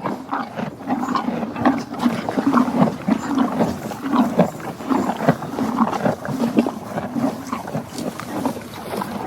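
Donkey braying in repeated rough pulses.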